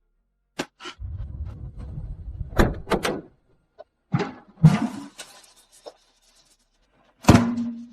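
A series of knocks and thuds: a couple of clicks, a low rumble with two thuds, two more thuds, a hiss, then a loud thud near the end.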